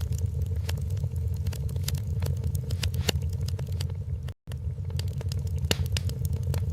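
Wood fire crackling in a fireplace: irregular sharp pops and snaps over a steady low rumble. The sound cuts out completely for an instant about four seconds in.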